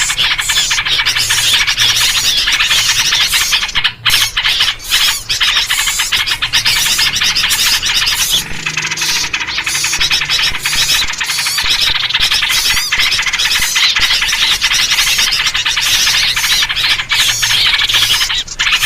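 Dense, unbroken din of many small birds chattering and chirping at once, a bird-lure chorus built on yellow-vented bulbul (trucuk) calls.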